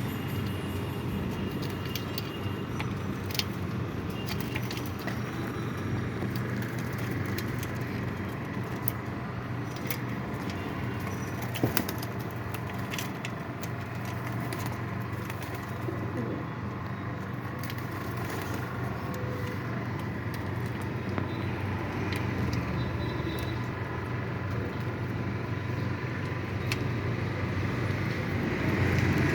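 Pigeons cooing, with some wing flapping, over a steady low hum and scattered short clicks.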